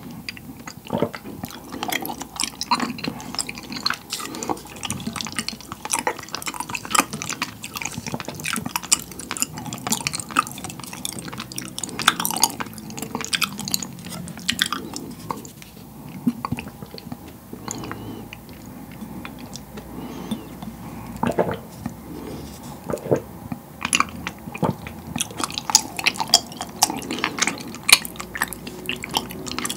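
Close-miked chewing of tapioca pearls in taro milk tea: a steady run of wet, sticky mouth clicks and squelches.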